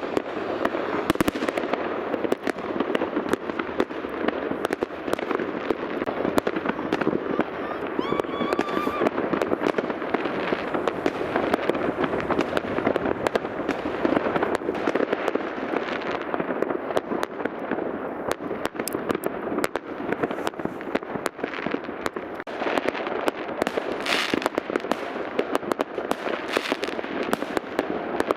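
Many New Year fireworks and rockets going off at once across a town: a dense, continuous rattle of bangs and crackles from several directions, with a short whistle about eight seconds in.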